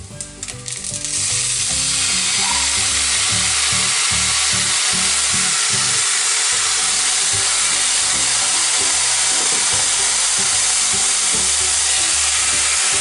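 Blended tomato poured into a pot of rice frying in oil: a light crackle of the browning rice, then, about a second in, a loud steady sizzle starts as the liquid hits the hot oil and keeps going.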